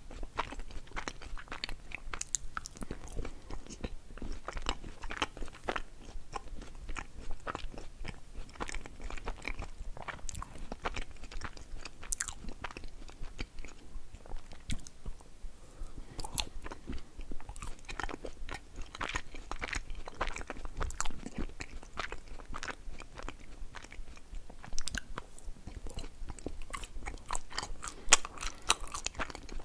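Halva bitten and chewed close up to a microphone: a continuous run of small crunching, crumbling chewing sounds, with a few sharper, louder bites near the end.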